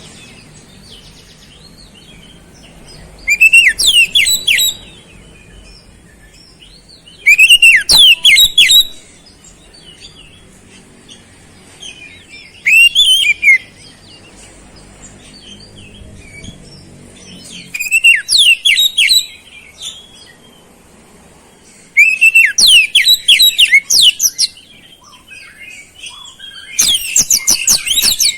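Oriental magpie-robin (kacer) singing in six loud, short phrases of rapid, high, sweeping notes, one roughly every four to five seconds. Its song is filled with imitated flowerpecker (cabe-cabean) calls.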